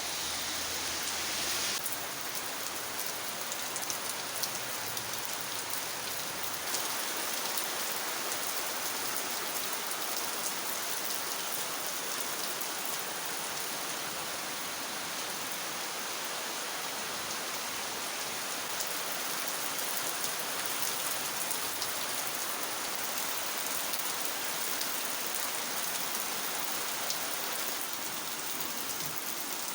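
Heavy rain pouring steadily, with many drops pattering on surfaces.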